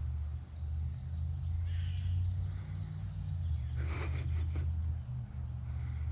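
A quick run of short, harsh animal calls about four seconds in, with a fainter call a couple of seconds earlier, over a steady low rumble.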